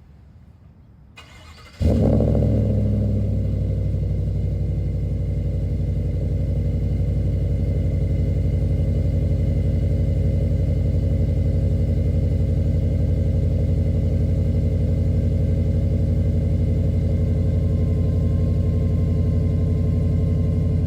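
Chevrolet Suburban engine cold-starting through an aftermarket MBRP exhaust: it fires about two seconds in with a brief flare of revs, then settles into a steady idle. This is the first start of the day.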